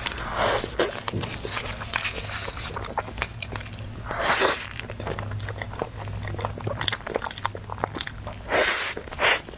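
Close-up mouth sounds of biting and chewing a soft, cream-filled strawberry snow mochi (xuemeiniang): wet smacking and squishing with many small clicks, and a few louder bites.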